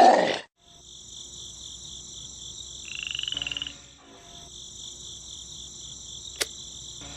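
A steady chorus of frogs calling, evenly pulsing high chirps, opens with a loud sudden burst. About three seconds in a short buzzy call rises in pitch, and a single sharp click comes near the end.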